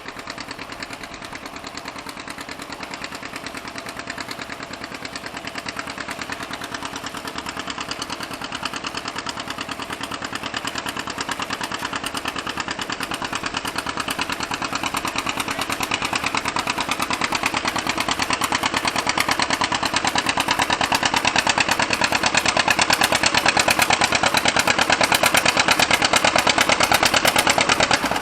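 Gas farm tractor engine running hard during a tractor pull, a rapid even firing beat that grows steadily louder.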